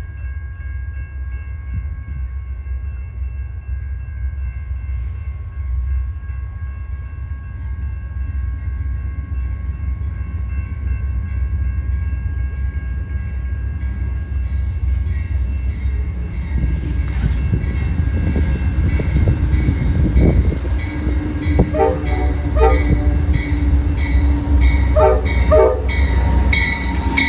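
Amtrak Southwest Chief passenger train coming through: the locomotive horn holds a steady multi-note chord for the first fifteen seconds or so over a deep diesel rumble that keeps growing louder. Then the train passes close by, with wheels clacking over rail joints in quick runs near the end.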